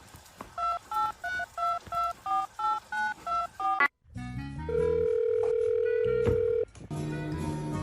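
Touch-tone telephone keypad beeps as about ten digits are dialed in quick succession, each beep two tones at once. After a sudden brief drop-out, music follows with one long held note.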